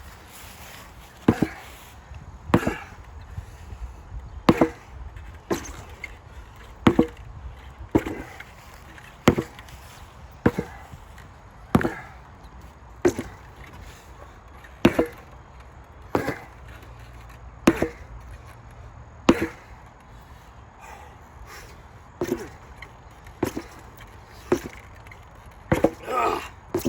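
An 8 lb sledgehammer striking a training target over and over, one sharp hit roughly every second and a bit.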